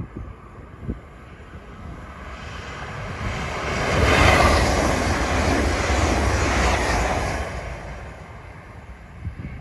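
A GWR Class 800-series bi-mode train passes at speed. Its rush builds over the first few seconds, is loudest as it goes by about four seconds in, holds for a few seconds and then fades as it runs away.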